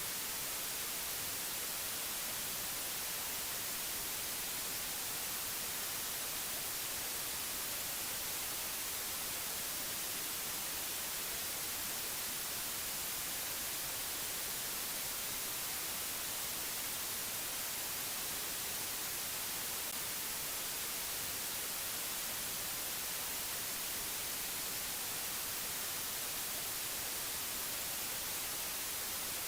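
Steady, unchanging hiss like white noise or static, brightest in the high treble, with no tones or events in it.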